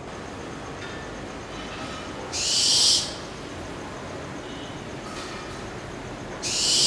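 Barn owl giving two harsh, hissing screeches about four seconds apart, each about half a second long; the second comes near the end.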